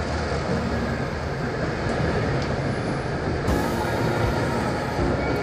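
Passenger train coaches rolling past close by, a steady rumble of steel wheels on the rails.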